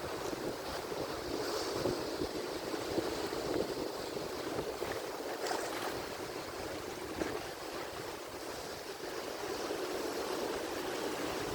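Ocean surf washing continuously, a steady rush of breaking waves and foam with no single loud crash standing out.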